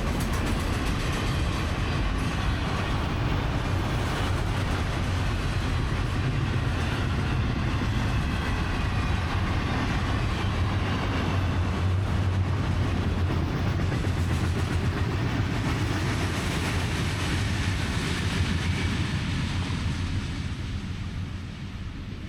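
Diesel-hauled train rolling past: a steady low engine drone under continuous wheel and rail rumble and rattle, easing off near the end.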